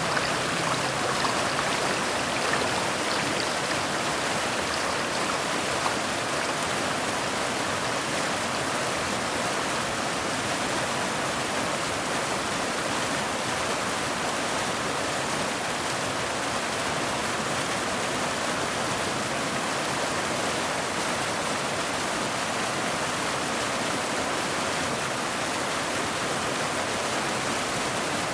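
Steady heavy rain: an even, unbroken hiss of water with no single drops standing out.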